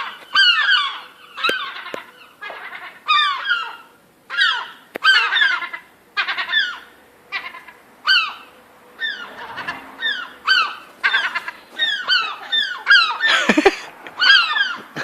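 Seagull calling: groups of harsh, falling cries repeated about once a second, the calls of an agitated gull.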